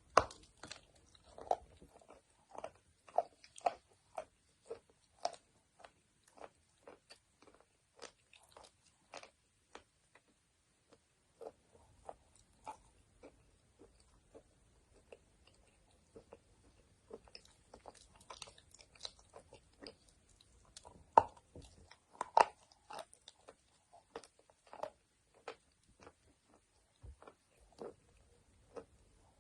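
Close-up crunching and chewing of eating chalk: a long series of sharp, crisp crunches, loudest right at the start and again about two-thirds of the way through, with a short lull before the middle.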